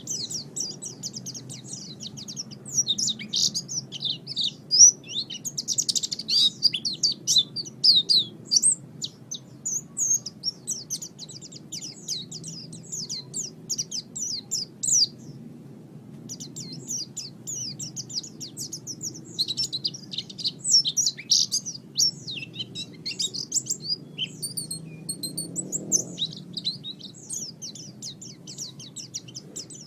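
White-eye (pleci) singing: a long run of rapid, high twittering notes with a brief pause about halfway through, over a faint low hum.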